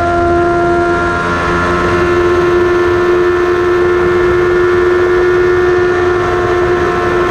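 Yamaha R6 inline-four sportbike engine running at high revs in fifth gear under acceleration. It makes a steady, high-pitched drone, with wind rush over the bike.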